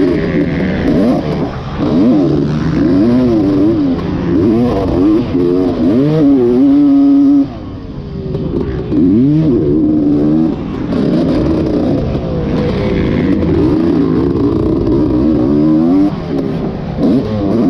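Dirt bike engine revving hard and changing pitch again and again as it is ridden round a motocross track. About seven seconds in it drops off sharply and briefly, as if the throttle is shut, then comes back up.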